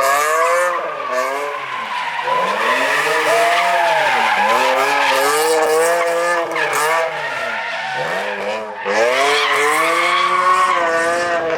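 A car engine revving hard, its pitch climbing and dropping again and again about every two seconds, with tyres squealing and skidding under it.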